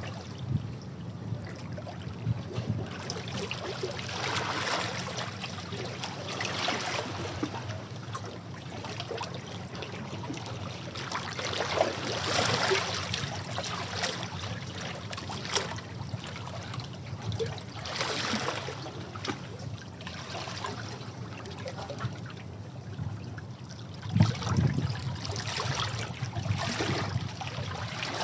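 Sea waves washing against rocks in irregular swells every few seconds, with water trickling and draining between them. The biggest surge comes near the end, with a low thud.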